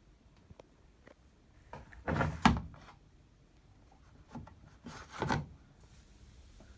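A washing machine's door or detergent drawer being handled: two short bursts of sliding and knocking, about three seconds apart, with a few light clicks.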